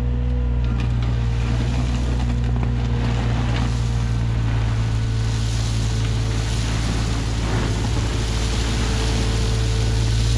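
John Deere 35G mini excavator's diesel engine running steadily at a constant speed, with a few faint knocks.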